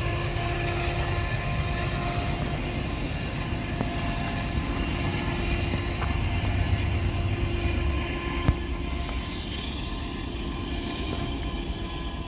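BNSF grain train rolling along the track: a steady low rumble with a few faint steady tones above it. A single clank sounds about eight seconds in, and the low rumble thins out after that.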